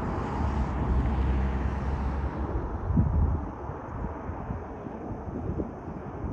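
Jet airliner engine noise outdoors: a low rumble with a noisy hiss over it, louder in the first half and easing off a little after halfway, with one brief louder moment about three seconds in.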